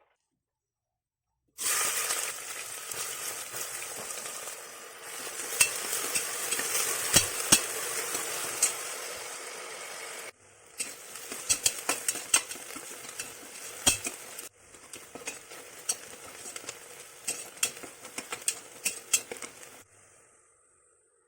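Curry ingredients sizzling in a hot pan while being stirred, with frequent sharp clinks and scrapes of the utensil against the pan. It starts about a second and a half in and comes in three stretches that cut off abruptly.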